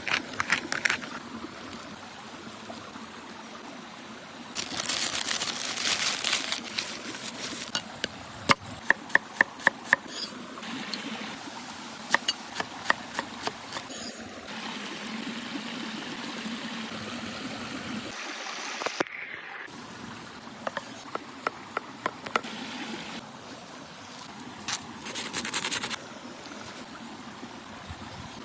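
Campfire cooking sounds: a steady hiss with louder bursts of hiss, and several runs of sharp taps, a few each second. The sound drops out briefly about two-thirds of the way through.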